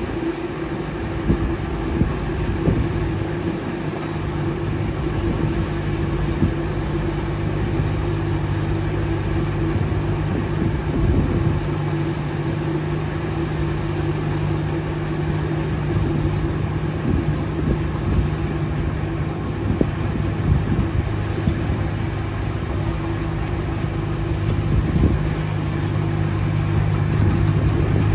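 Diesel engine of heavy earthmoving machinery running steadily at a constant pitch, with occasional short knocks, a little louder near the end.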